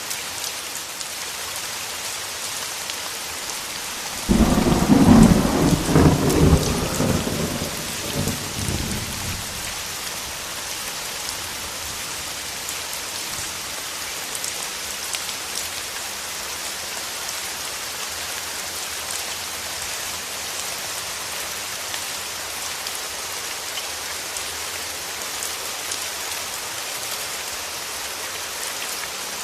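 Steady heavy rain falling, with a thunderclap that breaks in suddenly about four seconds in and rumbles off over several seconds; another rumble begins right at the end.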